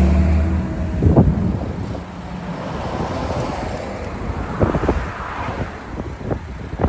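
Street traffic: a vehicle's low engine hum fades out within the first second, then wind on the microphone with a few scattered knocks.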